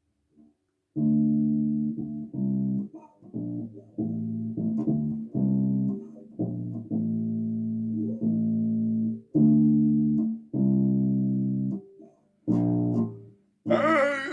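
Bass guitar played on its own: a run of sustained notes, each broken off by a short gap, starting about a second in. A brief, noisier burst comes near the end.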